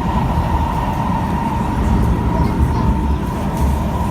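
Cabin noise of an SMRT Kawasaki C151 metro train running between stations: a steady low rumble of wheels on track, with a steady whine.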